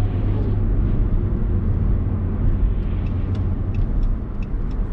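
Steady low rumble of a truck's engine and tyres heard from inside the cab while driving down the road. From about three seconds in, light clicks repeat about three times a second.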